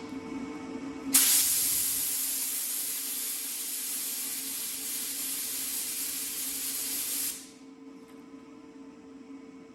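Aerosol spray can spraying in one long hiss of about six seconds, starting about a second in and cutting off sharply, over a steady low hum.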